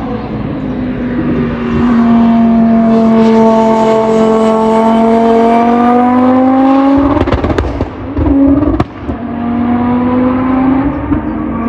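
Race car engine at high revs on a hillclimb run, its note climbing steadily under acceleration; about seven seconds in the driver lifts off, with sharp exhaust pops and crackles, then the engine pulls again at a steady pitch.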